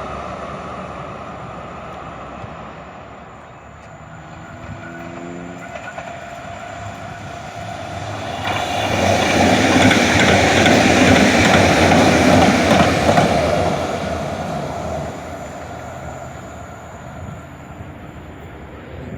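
A large vehicle passing close by. Its noise swells about eight seconds in, holds loud for several seconds, then fades away.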